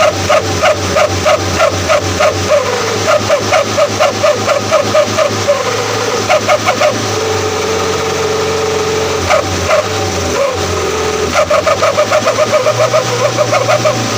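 Truck with a 'guguk' dog-bark exhaust letting out rapid, evenly spaced yapping barks, about three a second, over the steady hum of the running engine. Midway the barking gives way to a held whine for a couple of seconds, then resumes faster near the end.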